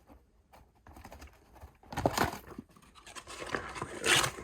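Cardboard Lego box being handled and torn, with scraping and scratching and two louder tearing rustles, about two seconds in and again near the end.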